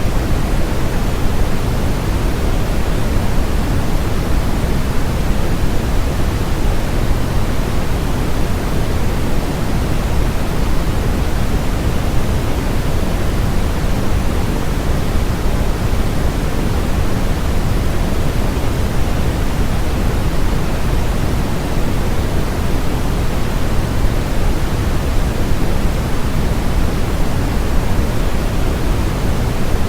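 Steady electronically generated noise, sold as white noise: a constant, unbroken hiss, fuller in the low end than at the top.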